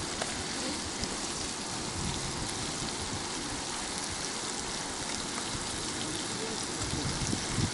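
Flour-dredged rotan (Amur sleeper) fish frying in hot oil in a pan, a steady sizzling hiss.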